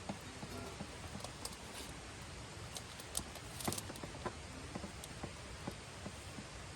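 Wood fire crackling in a campfire stand: scattered sharp pops over a steady soft hiss, with a quick cluster of louder cracks about halfway through.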